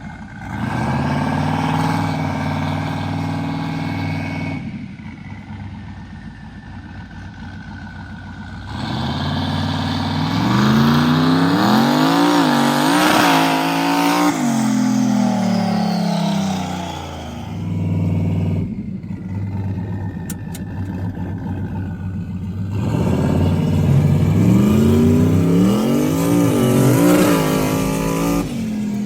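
Turbocharged mega mud truck engine making pulls under load, with about 7 psi of CO2 on the wastegate dome for more boost. Its revs climb and fall about ten seconds in and again near the end, with steadier, lower running in between.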